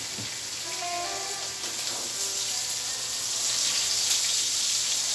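Food sizzling as it is stir-fried in a metal pan over a gas burner, a steady hiss that grows louder in the second half.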